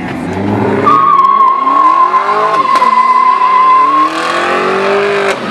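A car engine revving up repeatedly while its tyres squeal in one long steady screech lasting about three seconds, the sound of a burnout or sliding launch.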